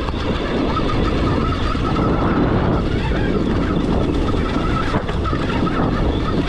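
Stark Varg electric dirt bike riding up a trail: a faint steady motor whine over a loud rush of wind and the rumble of tyres on rough ground.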